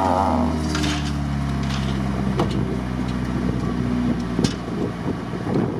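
Lada Niva's engine held at steady revs as it sits stuck in the mud with people pushing it, easing off about four seconds in. A few short knocks are heard over it.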